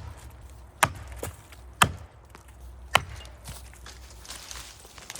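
Axe strikes chopping into the trunk of a big maple tree: three sharp blows about a second apart, then a pause of about two seconds before another blow at the very end.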